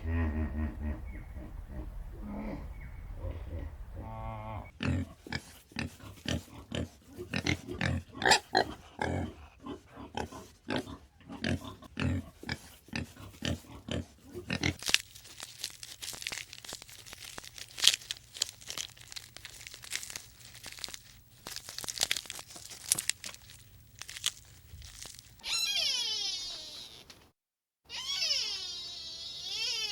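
Farm animals feeding: low grunts at first, then a long run of close-up crunching and chewing clicks, with a few high, drawn-out animal calls near the end.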